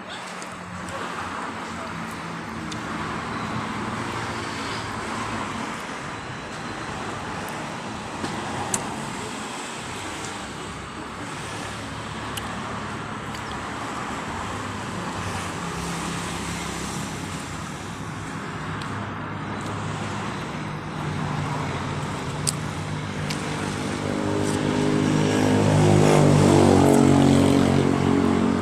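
Steady road traffic running past, with one vehicle's engine passing close and growing loud near the end. There are a couple of sharp clicks in between.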